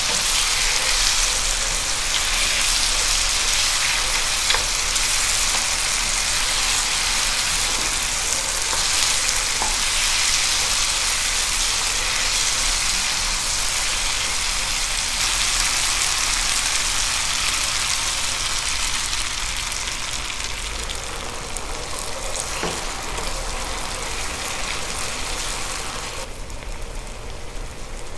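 Food frying: a steady sizzle with a few sharp pops. It eases off over the last third and drops away sharply near the end.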